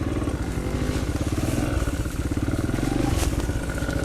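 Small pit bike engine running at a low, steady speed, its pitch wavering slightly.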